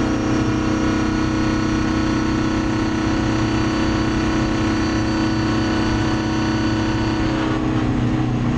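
Vehicle engine running at a steady speed with an even, unchanging note; about seven and a half seconds in, the note changes and its higher tones fade.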